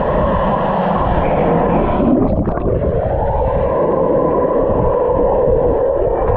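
Fast-flowing water of a water-park river rushing around the camera, heard muffled with the high end cut off: a loud, steady churning with a brief gurgling change a little past two seconds in.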